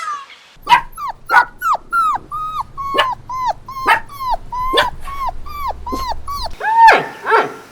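A dog yipping: a rapid run of short, high yelps, each falling in pitch, about three a second, ending with two longer, louder yelps.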